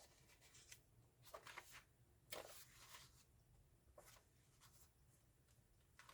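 Near silence with a few faint, brief rustles of paper as the pages of a handmade junk journal are turned and handled.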